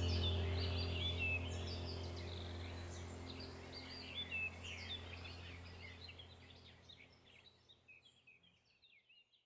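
Small birds chirping and twittering over a low steady drone, the whole sound fading gradually away to silence.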